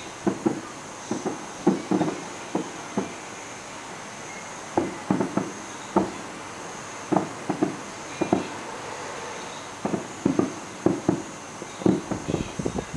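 Fireworks bursting: irregular bangs and pops, several coming in quick clusters of two to four.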